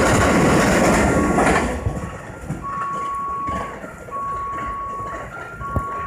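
A freight train's wagons rumbling past on the rails; the noise drops away about two seconds in. It leaves a steady electronic warning tone repeating in long cycles that alternate between two pitches.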